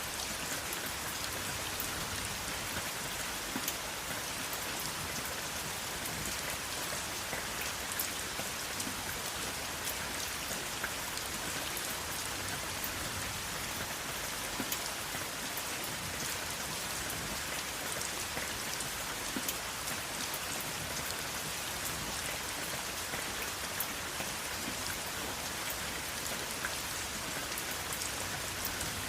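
Steady rain falling and pattering on a surface, an even hiss with many small drop ticks, no thunder.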